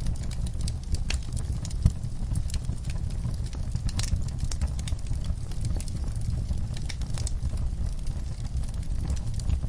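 Wood-burning fire crackling, with scattered irregular pops over a steady low rumble; one sharper pop about two seconds in.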